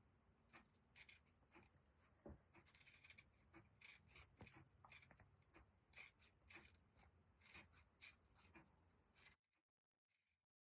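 Scissors snipping through the fabric tape of a metal zipper, cutting close along the teeth: a run of faint, irregular short snips that stops about a second before the end.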